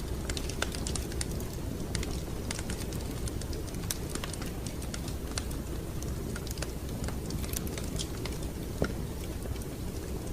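Wood fire crackling in a fireplace: a steady low rumble with frequent irregular sharp pops and crackles, and one louder pop about nine seconds in.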